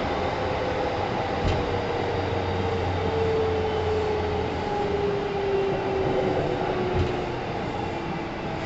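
Kintetsu 1010 series electric train heard running from inside a passenger car: a steady rumble with a whine that falls slowly in pitch. Two short knocks come about a second and a half in and again near seven seconds.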